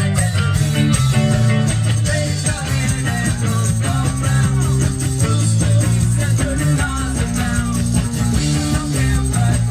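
Live ska-reggae band playing without vocals: a heavy bass line under guitar and other instruments, with a steady driving beat.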